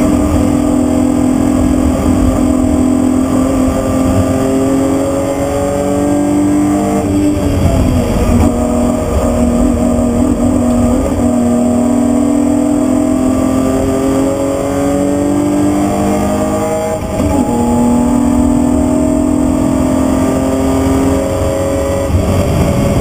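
BMW E36 323i's 2.5-litre straight-six running hard, heard inside the stripped, caged cabin: its pitch climbs steadily as it pulls through the revs, broken by gear changes about seven and seventeen seconds in. Tyre and road rumble run underneath.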